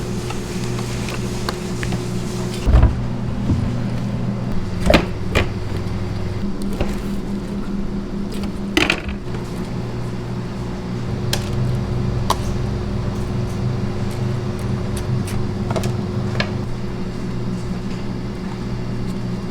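A machine running with a steady low hum, with a few sharp knocks and clatters scattered through it.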